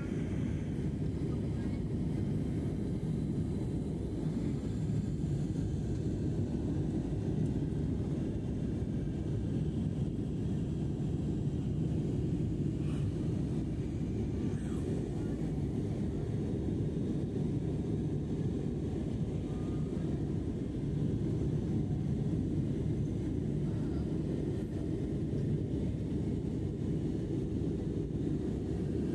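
Steady low drone of an airliner's cabin in flight, engine and airflow noise.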